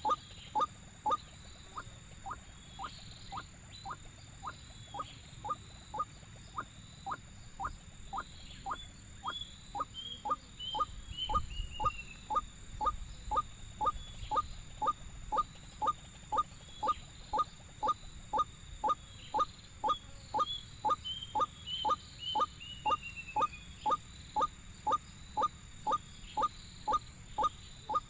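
White-breasted waterhen calls: a short rising note repeated very regularly, about two a second, with a falling run of higher notes about every ten seconds.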